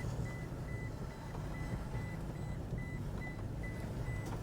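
Pickup truck engine idling or creeping at low revs, heard from inside the cab, with the in-cabin reverse warning beeping at a steady pitch about twice a second: the truck is in reverse.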